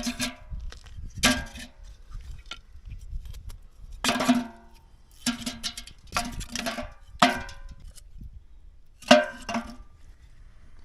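Wood being chopped: about eight sharp blows at uneven intervals of one to two seconds, each knock ringing briefly.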